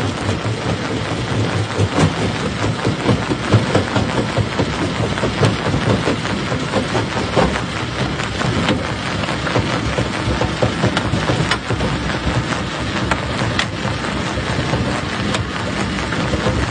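Stone crusher running with rock in it: a dense, continuous clatter and crackle of stones cracking and knocking together over the machine's steady low rumble.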